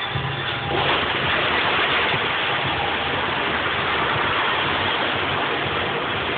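Turbocharged Acura Integra engine running steadily with the hood open, a rough, hissy sound that gets louder about a second in and then holds.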